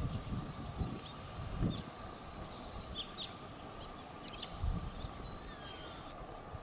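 Emu's deep, low booming pulses, a few times, with small birds chirping high in the background and a faint steady tone throughout.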